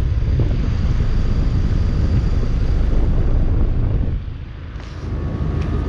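2017 American Standard Silver 14 four-ton heat pump outdoor unit running in heat mode: a steady low hum of fan and compressor with a faint steady whine on top. It dips in level briefly about four seconds in.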